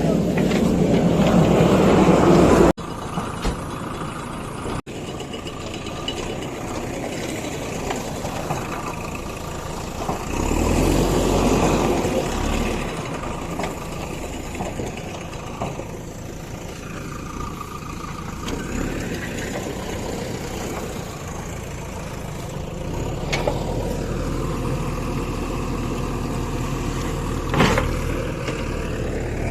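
Heavy diesel engines of construction vehicles running and revving, rising and falling in level, with sudden jumps where the sound cuts.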